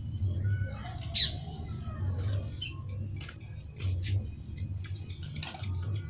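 A small songbird chirping, with one loud, sharply falling call about a second in and short chirps and ticks scattered through; a low hum runs underneath.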